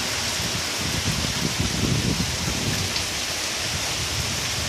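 Rain falling steadily in a thunderstorm, with a low rumble from about a second to two and a half seconds in.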